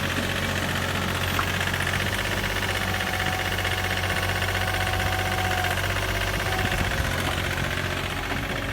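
Diesel engine of a Komatsu PC40 mini excavator running steadily at a low, even speed. A faint higher tone joins for a few seconds midway.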